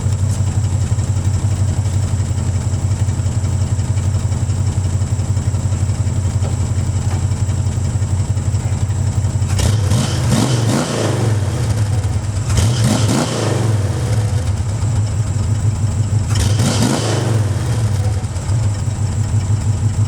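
1971 Ford Mustang Mach 1 V8 idling, heard at its exhaust, then revved three times: once about ten seconds in, again a couple of seconds later and once more near the end. Each time the engine note climbs and falls back to idle.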